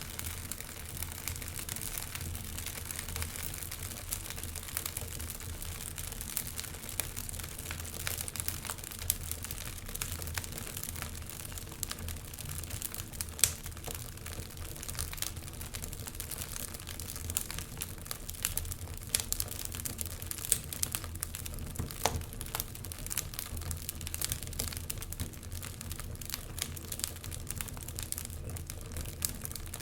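Wood fire crackling in a fireplace: dense, irregular snaps and pops, with a few louder pops, over a steady low rumble.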